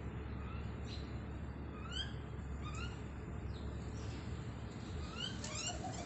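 Small birds calling: short rising chirps spaced a second or so apart, several in quick succession near the end. A steady low rumble runs underneath.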